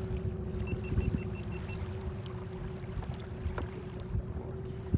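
Small boat's outboard motor running steadily, a constant low hum, with water noise around the hull.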